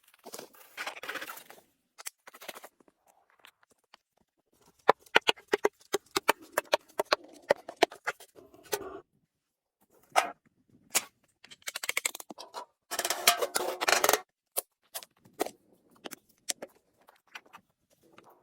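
Close, crisp crunching and clicking handling sounds in irregular bursts, with dead silence between them.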